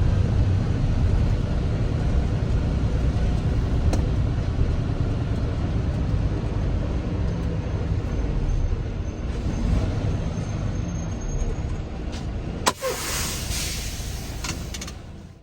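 Diesel engine of a semi truck running with a steady low rumble. There is a sharp click about three quarters of the way through, and the sound cuts off suddenly at the end.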